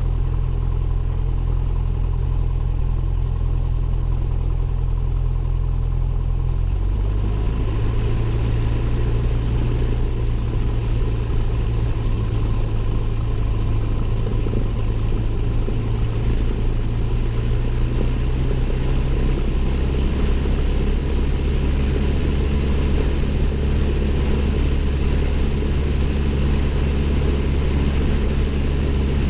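Cessna 172N's four-cylinder Lycoming O-320 engine and propeller running steadily at low power. The engine speed steps up about seven seconds in, and the note shifts slightly again around twenty seconds in.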